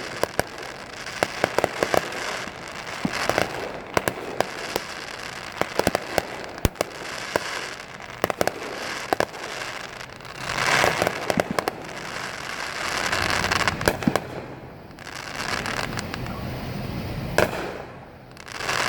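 Fireworks going off: a rapid series of sharp cracks and pops, with longer swells of crackling about halfway through and again near the end.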